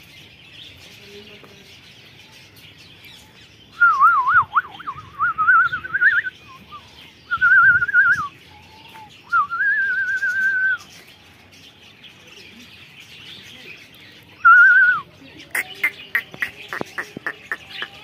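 Caged aviary birds chirping steadily, with four loud warbling whistles in the middle and a burst of rapid sharp chirps near the end.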